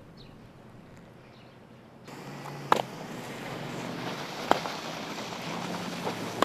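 Mallets and a sledgehammer striking packed road ice: four sharp knocks a second or two apart, over steady outdoor noise. They follow a quiet snowy-street ambience with a few faint bird chirps.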